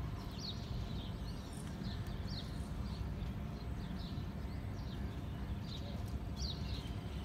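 Small birds calling with short high chirps every second or so, each sliding down in pitch, over a steady low rumble.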